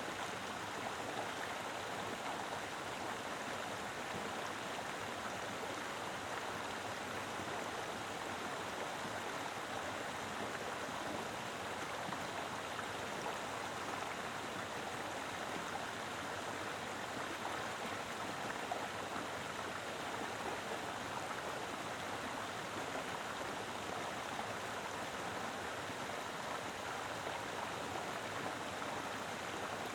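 Mountain river flowing strongly, a full, steady rushing of water over rocks.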